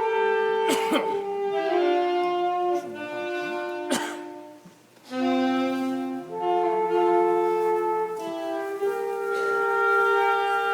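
Several wind instruments playing a slow piece together in held chords, with a brief break between phrases about five seconds in.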